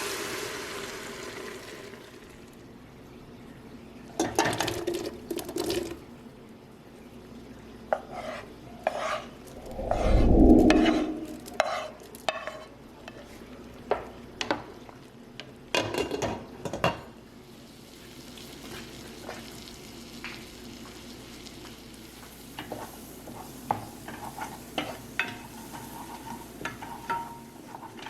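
Food sizzling in a hot pan while a utensil stirs it, scraping and clacking against the pan in short bursts. About ten seconds in comes a single louder, deeper sound lasting about a second.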